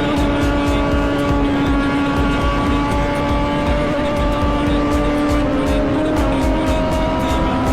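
Kawasaki ZX-10R superbike's inline-four engine running hard at high, steady revs, its pitch holding with a slight drift and shifting step near the end.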